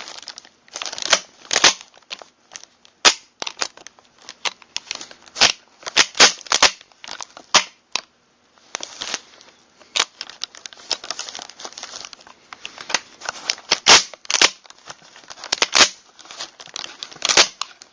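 Sharp metallic clicks and clacks at an irregular pace, from a Mossberg pump-action shotgun's trigger group and action being worked by hand while it is checked after reassembly.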